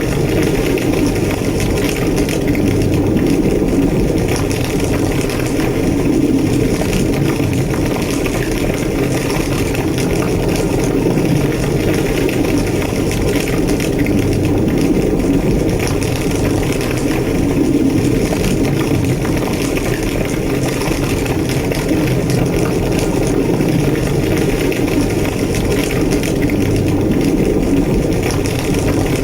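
A large burning building: a loud, steady fire roar with dense crackling.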